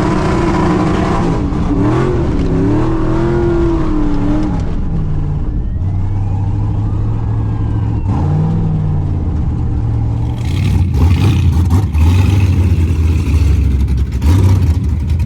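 Burnout truck's engine held at high revs during a burnout. Its pitch wavers up and down for the first few seconds, then holds steady. Sharp crackling joins in from about ten seconds in.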